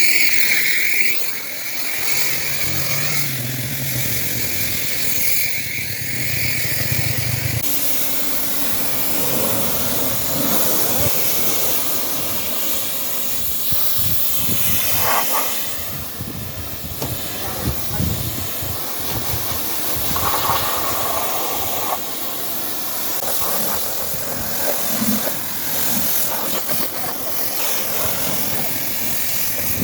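Steady hissing spray from car-washing equipment, with a low machine hum in the first several seconds that then stops.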